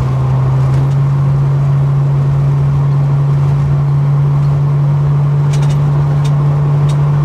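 Holden HK car driving at road speed, heard from inside the cabin: a steady engine and exhaust drone over tyre and wind noise. Its pitch lifts a little at the start, then holds steady.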